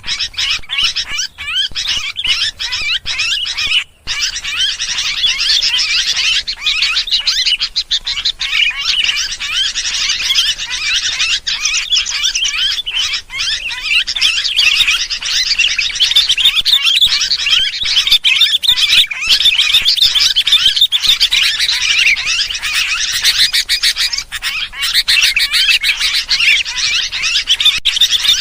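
Sooty-headed bulbuls chattering in an agitated, noisy chorus: dense, overlapping quick chirps and calls with no pause, the excited "ribut" calling used as a bird-lure recording. A brief gap comes about four seconds in.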